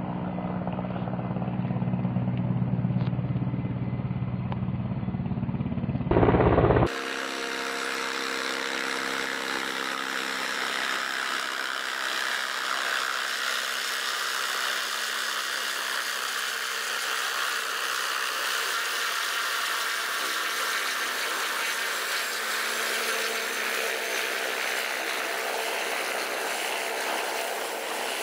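Helicopters running: a low engine and rotor drone for about the first six seconds, then after a cut a steady turbine whine with hiss.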